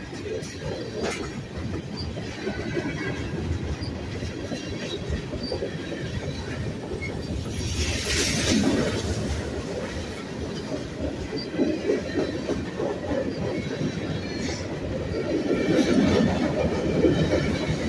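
Freight cars of a mixed freight train rolling past close by: a steady rumble and rattle of steel wheels on rail, swelling louder around the middle and again near the end, with brief faint high wheel squeals now and then.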